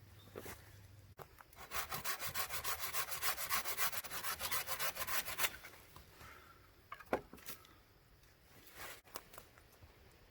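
A hand tool scraping rapidly back and forth on wood in quick, even strokes, about seven a second, for roughly four seconds starting about a second in. A couple of single sharp clicks follow later.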